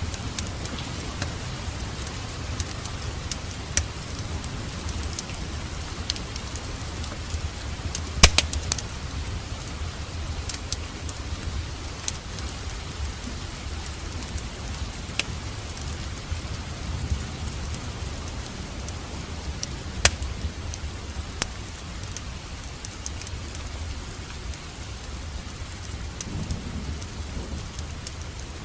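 Steady rain with a low, continuous rumble beneath it, over a crackling wood fire. The fire gives scattered pops, with two loud, sharp cracks about 8 and 20 seconds in.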